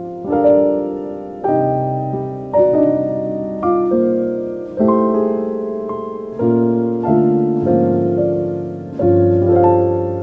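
Slow, soft piano music: chords struck about once a second, each ringing and fading before the next.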